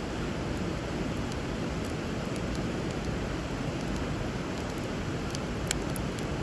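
Steady rush of flowing river water, with a wood fire crackling over it in scattered small pops, one louder pop near the end.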